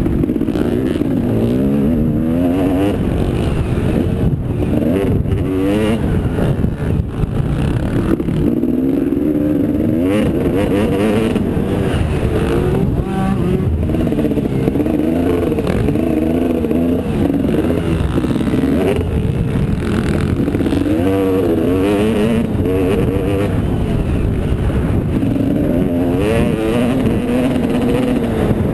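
Motocross motorcycle engine revving, its pitch rising and falling over and over under a steady low rumble.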